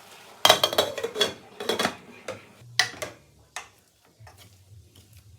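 Kitchen utensils clattering against cookware: a quick run of sharp clinks and knocks over about three seconds, then a few faint ticks.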